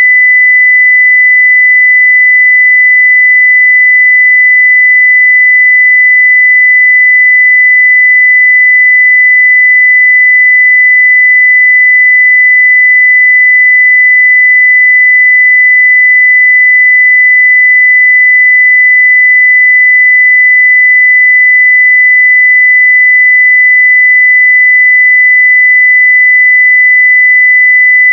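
A continuous 2 kHz sine-wave test tone at 0 dB full scale, a single steady pitch held without change.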